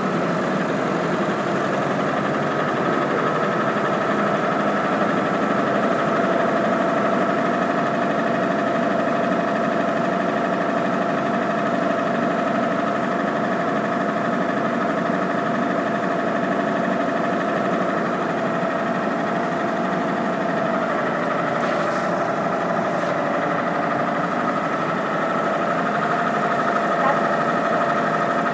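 Six-cylinder Chevrolet spark-ignition engine running steadily at quarter throttle under about 45 pounds of load.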